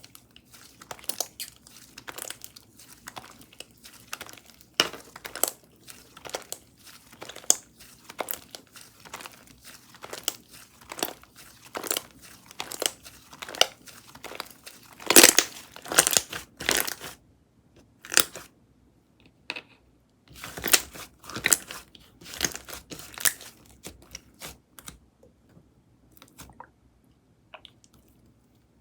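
Pistachio java chip frappe slime being pressed, folded and stretched by hand, giving irregular crackly pops and clicks several times a second. The loudest cluster of crackles comes about halfway through, followed by a short lull.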